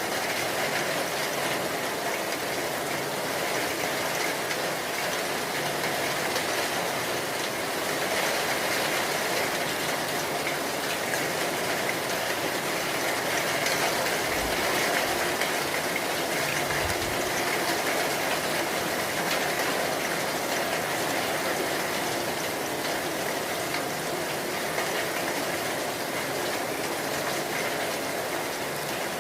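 Steady rain pouring down in an even, unbroken hiss.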